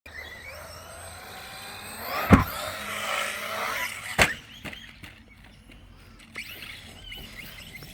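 Brushless electric motor of an Arrma Outcast 4S BLX RC stunt truck whining up in pitch as it accelerates. Two hard impacts follow, the louder about two and a half seconds in and another just after four seconds, as the truck jumps and lands, then a few light knocks.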